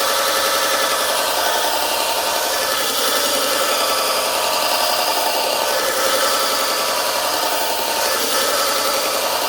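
2x72 belt grinder running steadily, its belt grinding the bevel of a steel knife blade.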